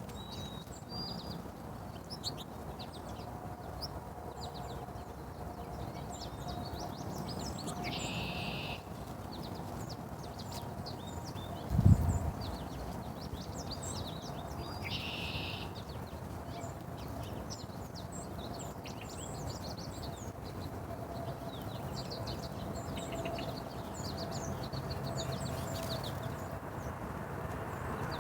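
Birds chirping in many short, high calls, with two brief buzzy calls about 8 and 15 seconds in. A single low thump near the middle is the loudest sound, over a faint steady hum.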